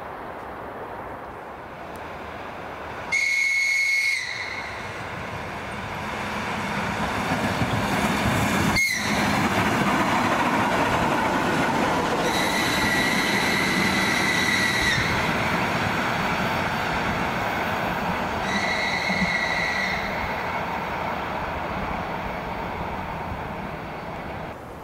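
Train running past with a rising rumble, sounding a high-pitched horn three times: a short blast about three seconds in, a longer one of about three seconds near the middle, and another shorter one about a second and a half long later on.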